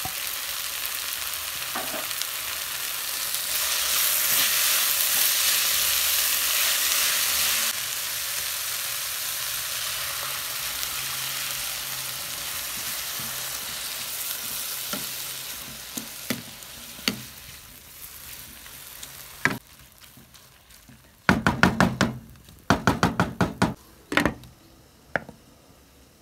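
Shredded cabbage, carrot and minced beef sizzling in a frying pan while being stirred with a wooden spoon, cooking down as a filling for beef rolls. The sizzle fades after about 16 s, and about 21 s in there is a burst of quick clattering knocks as a glass lid goes onto the pan.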